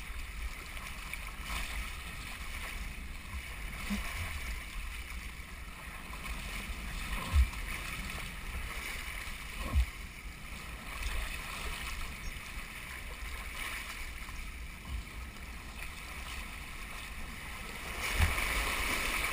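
Water rushing down a slide flume with wind on the microphone, and a few sharp low thumps as the rider bumps along the slide; the rushing grows louder near the end.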